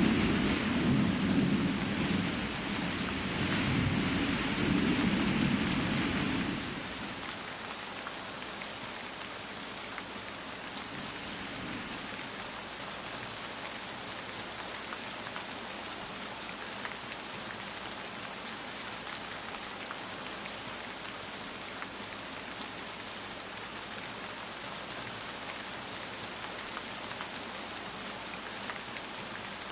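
Steady rain with a low rolling thunder rumble over it for the first six seconds or so; the rumble cuts off suddenly, leaving the even hiss of rain falling.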